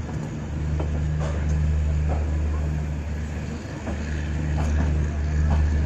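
Passenger train running, heard on board: a steady low rumble with a hum that comes and goes, and scattered light clicks and knocks.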